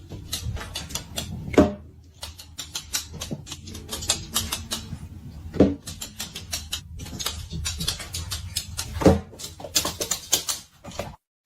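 A dense run of irregular small clicks and taps, with three louder knocks spaced about four seconds apart.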